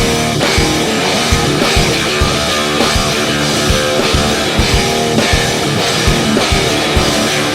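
Rock music: guitars over a steady drum beat.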